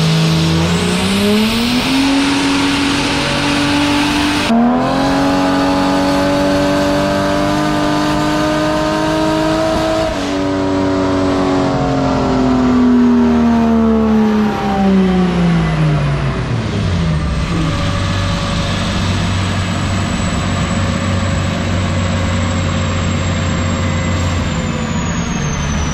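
Turbocharged Toyota 2JZ inline-six making a wide-open-throttle dyno pull on wastegate boost. The revs climb, dip briefly about four and a half seconds in, and climb again to about ten seconds. The engine then winds down off the throttle and settles to idle.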